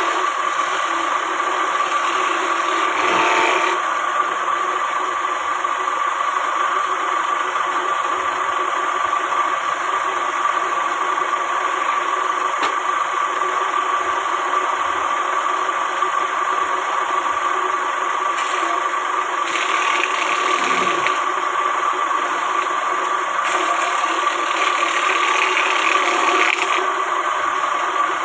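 A woodworking power machine running steadily, a constant mechanical noise with a steady whining tone, changing briefly a few times as work is done.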